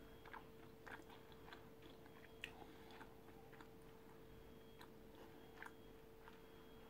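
Faint chewing of a mouthful of cooked emu steak: small irregular mouth clicks and smacks, over a steady faint hum.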